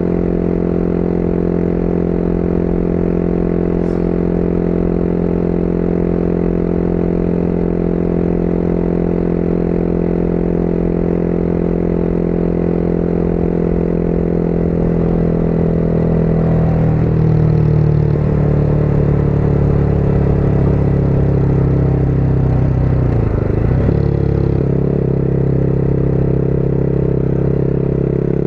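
Motorcycle engine heard from the rider's seat, running at a steady cruising note. About halfway through the note shifts and wavers and grows a little louder for several seconds, as with throttle and gear changes, then settles steady again.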